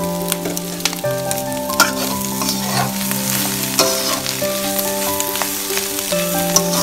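Chilli chapathi (chapathi pieces, egg and vegetables) sizzling in a pan while a metal slotted spatula stirs it, with sharp clicks and scrapes of the spatula on the pan. A background melody of held notes plays underneath.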